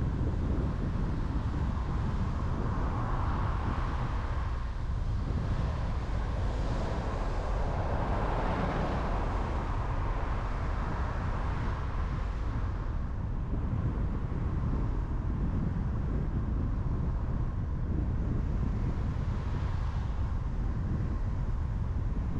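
Steady road and engine noise of a car driving on a highway, a constant low rumble with a hiss that swells up for several seconds about three seconds in, then eases off.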